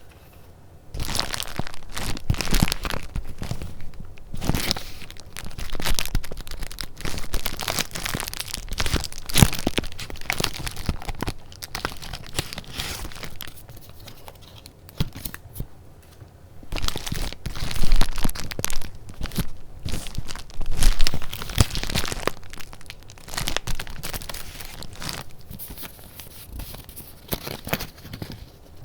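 Paper goods being handled: sheets and paper pieces crinkling, rustling and rubbing in quick irregular strokes, with a few louder crinkles about two-thirds of the way through.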